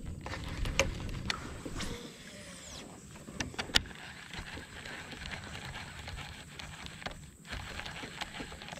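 Scattered faint clicks and knocks of fishing tackle and kayak handling during a retrieve, with a low rumble in the first two seconds.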